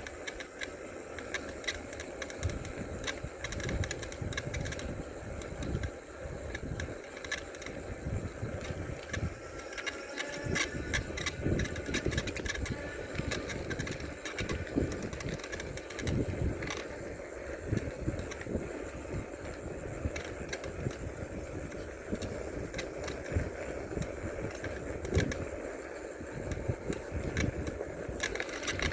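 Wind buffeting the microphone on a moving bicycle, with frequent light clicks and rattles from the bike as it rolls along.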